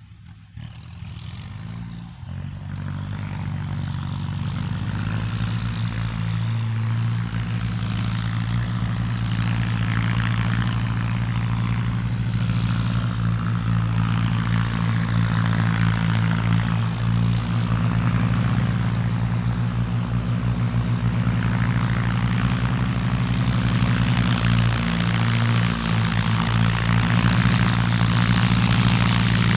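Farm tractor's four-cylinder diesel engine running steadily. It comes up out of quiet in the first two seconds and grows slowly louder through the rest.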